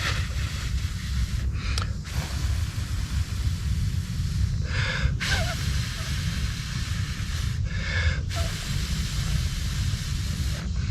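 A person blowing into a smouldering tinder bundle to bring a char-cloth ember to flame: long blows rumble on the microphone, broken by a sharp in-breath about every three seconds.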